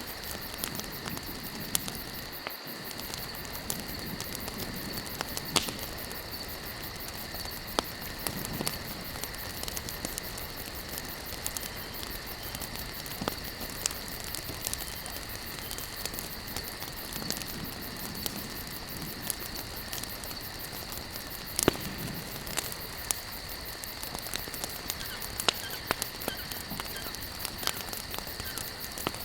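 Campfire crackling, with scattered sharp pops from the burning wood, the loudest about 22 seconds in, over a soft low rush of flame. A steady high-pitched insect chorus, like crickets, runs underneath.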